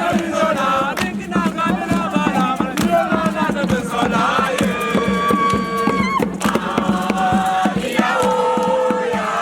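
A group singing a chant together, its lines held as long notes in the second half, over many sharp percussive hits.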